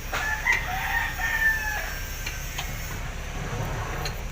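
A rooster crowing once, one long call lasting about a second and a half that falls slightly in pitch at the end.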